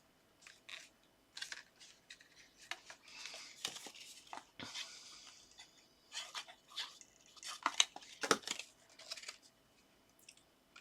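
Paper and card being handled on a craft table: intermittent rustling and sliding of cardstock strips, with a few sharp little clicks and taps about eight seconds in.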